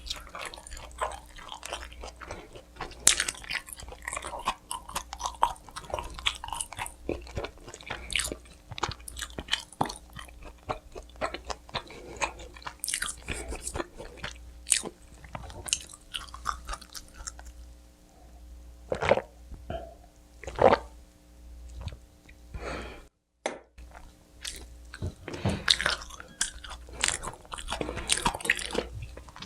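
Close-miked eating sounds of pizza: crisp crust crunching at each bite and steady moist chewing. The sound cuts out completely for about half a second about two-thirds of the way through.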